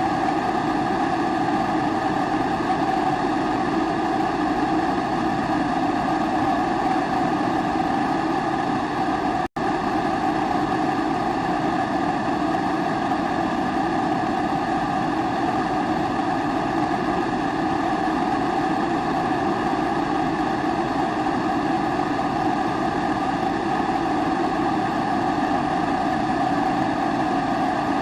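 Kerosene pressure stove (primus burner) burning steadily, its flame giving an even roar. The sound cuts out for an instant about nine and a half seconds in.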